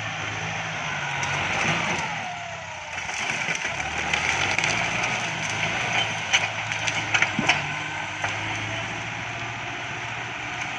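Kubota MU5702 tractor's diesel engine running steadily under load. A run of sharp cracks and snaps comes about six to seven and a half seconds in, as wood breaks under the tractor while it knocks down clumps.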